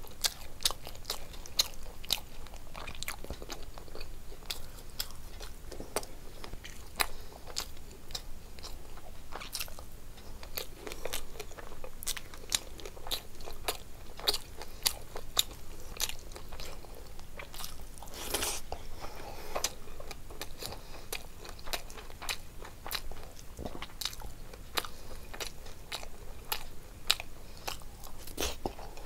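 A person chewing and eating rice and fish curry by hand: a steady, irregular run of wet mouth clicks and smacks with some crunching, and one louder crunch about two-thirds of the way through.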